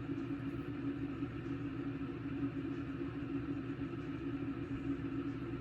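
Steady low mechanical hum with a constant pitch and no change over its length, like an appliance running in the room.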